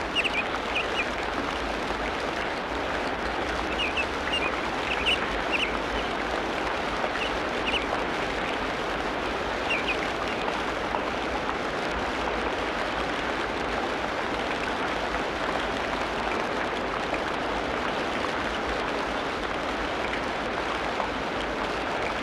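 Tropical rainforest ambience: a steady, even rushing noise, with short high bird chirps scattered through the first half.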